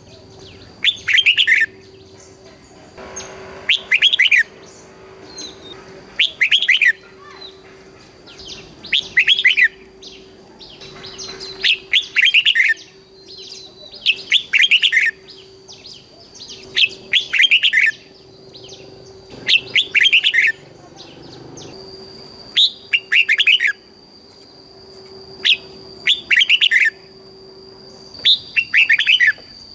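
Red-whiskered bulbul singing a short, loud phrase over and over, about one phrase every two and a half seconds.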